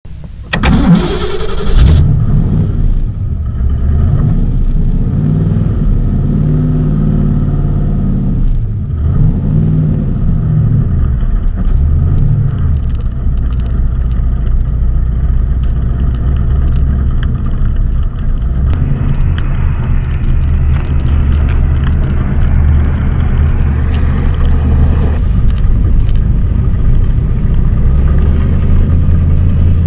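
Cobra roadster's V8 engine starting with a sudden loud catch, then blipped several times in rising-and-falling revs before settling into a steady, deep running note as the car drives off; the note picks up more rasp about two-thirds of the way in.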